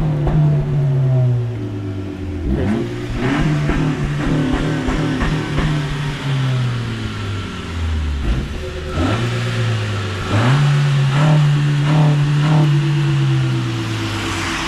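A car engine running under changing throttle. Its note falls over the first couple of seconds, stays low, then climbs back up in steps about nine to eleven seconds in.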